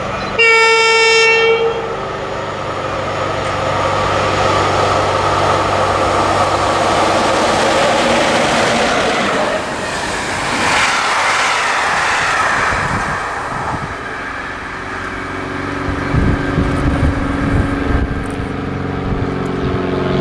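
EU07 electric locomotive sounding a single horn blast of about a second and a half as it approaches, the loudest sound here. It then passes at speed hauling passenger coaches: the rush of wheels on rail swells to its peak about halfway through and fades, with low rumbling thumps near the end as the last coaches go by.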